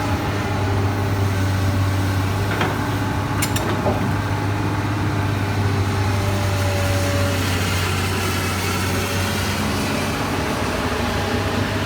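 Komatsu PC200 excavator's diesel engine running steadily, with a few short sharp clicks or knocks about three seconds in.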